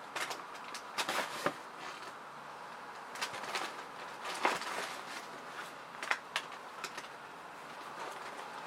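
Scattered light clicks and knocks, like objects being handled and set down, over a steady hiss.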